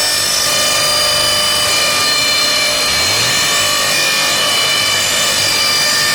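Homemade aluminium end-milling machine running, a loud steady whine made of several high tones over a noisy hiss.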